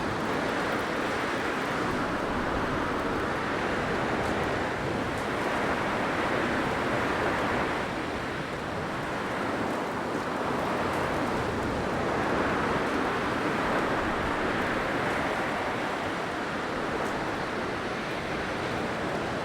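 Blizzard wind blowing in a steady rushing noise that swells and eases slowly, dipping briefly about eight seconds in.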